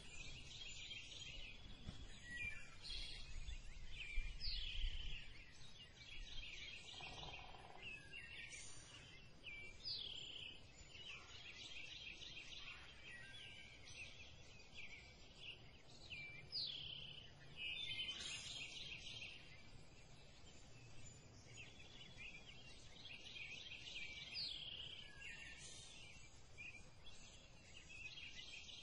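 Wild birds singing and calling, faint: repeated chirping trills with short sliding notes, over a light outdoor hush. A low rumble comes and goes in the first few seconds.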